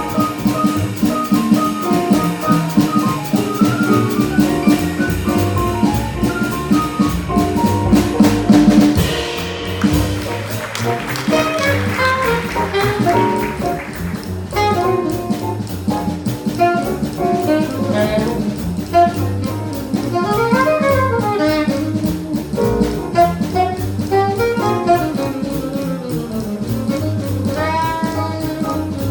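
Live small jazz combo playing an instrumental passage, with horns, piano, walking bass and drum kit. A cymbal crash comes about nine seconds in, and fast melodic runs rise and fall in the second half.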